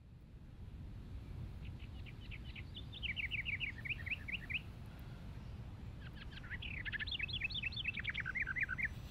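A songbird singing two runs of quick, repeated chirping notes, the first starting about two seconds in and the second about six seconds in, over a low steady rumble.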